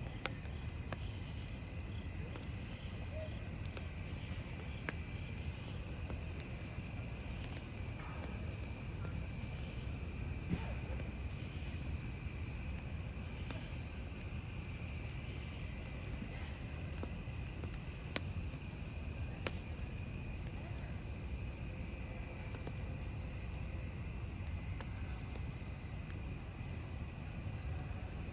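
Crickets trilling steadily over a wood fire burning with a low continuous rumble, with a few sharp crackles and pops from the logs scattered through.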